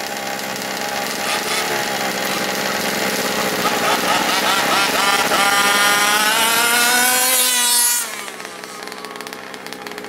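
Small two-stroke engine of an FG Zeus gas RC monster truck revving up in a long rising whine, then the throttle is let off and it drops back to idle about eight seconds in. The revs climb without a gear change: the two-speed is not shifting, which the owner puts down to it being installed backwards.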